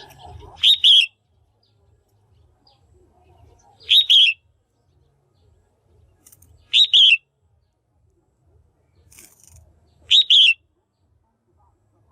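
Female red-whiskered bulbul calling: a short, loud two-note chirp given four times, about every three seconds. It is the female's call, used to stir up male bulbuls or to pair birds.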